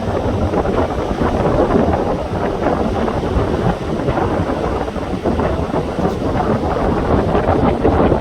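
Strong wind buffeting the microphone, a loud steady rushing with a constantly fluttering level.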